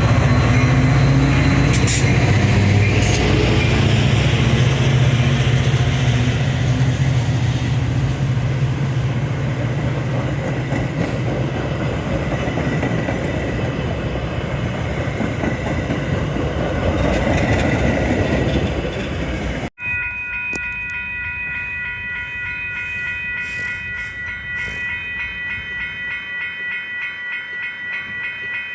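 A train passing close by: a loud rolling roar with a deep engine hum that slowly eases off. After an abrupt cut, a steady ringing of several tones pulses a few times a second, bell-like.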